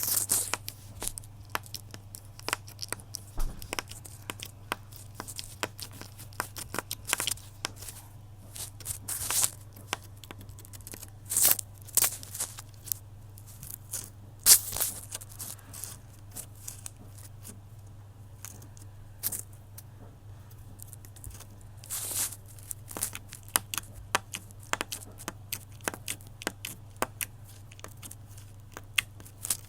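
Close, irregular crackling and tearing-like scratches, as of material being crinkled or torn, with a few louder rips, over a steady low electrical hum.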